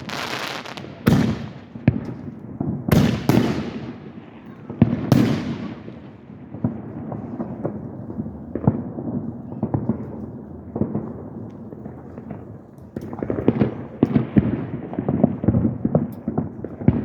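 Aerial fireworks bursting: several loud booms in the first five seconds, then a long stretch of dense crackling pops that grows busier near the end.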